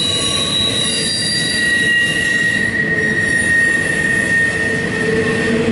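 CSX intermodal train of double-stack container cars rolling past, with a steady high-pitched squeal from the wheels over the rolling noise; one squeal tone fades about a second in as a lower one takes over.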